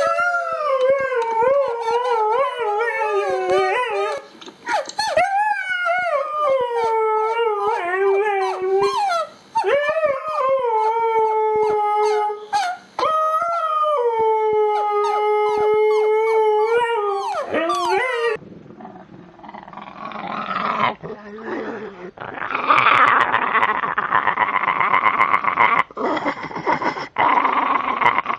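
A dog howling in a series of long, high, wavering howls that glide up and down in pitch. About two-thirds of the way through it cuts abruptly to a rougher, noisier sound with scattered sharp clicks.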